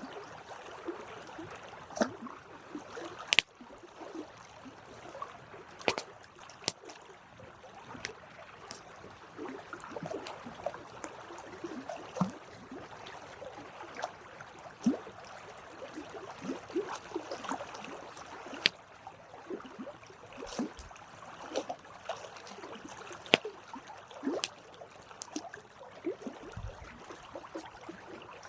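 Wood campfire crackling: a low hiss with many small irregular crackles and occasional sharp pops and snaps.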